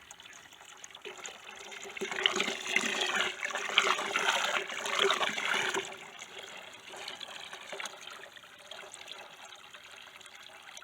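Water running from a hose into a container, splashing and gurgling much louder for about four seconds starting two seconds in, then settling back to a quieter trickle.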